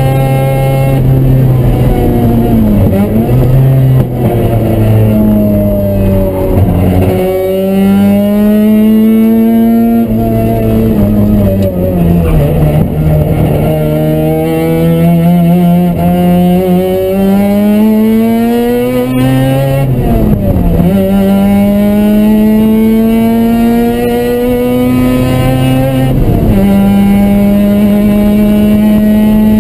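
Mazda RX7's rotary engine heard from inside the cabin at track speed, pulling up through the revs and dropping back several times as the driver shifts and lifts for corners.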